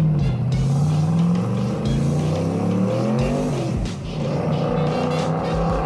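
Turbocharged engine of a Factory Five '35 hot-rod truck revving under acceleration. Its pitch climbs about two seconds in, drops near the middle, then climbs again.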